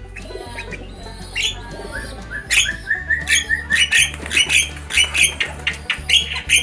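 Starlings (jalak) calling: harsh squawks and chirps. A run of short notes steps upward in pitch about a second and a half in, then rapid sharp calls come thick and fast from about two and a half seconds on. Background music with a steady low beat plays underneath.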